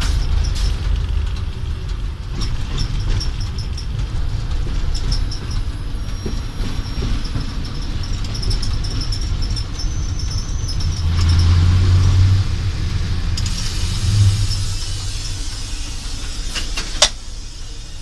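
ChME3 diesel shunting locomotive's engine running with a steady low drone, swelling louder for a second or so about 11 seconds in. A sharp click near the end, after which the sound drops to a quieter level.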